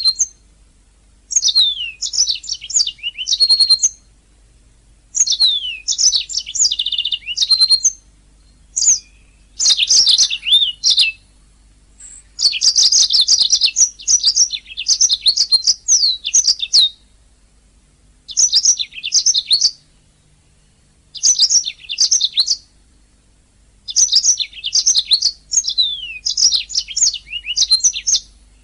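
Domestic canary singing: phrases of rapid high chirps, trills and down-slurred whistles, in bursts of one to five seconds with short pauses between them.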